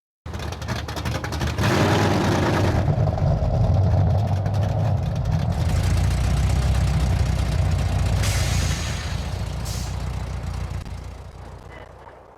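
A car engine running, with steady low engine tones throughout, fading out near the end.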